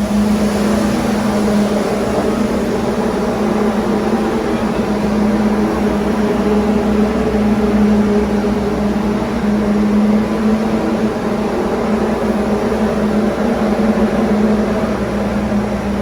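Abrasive blasting stripping truck lift-kit parts: a loud, steady hiss of blast media over a constant low hum from the blasting equipment.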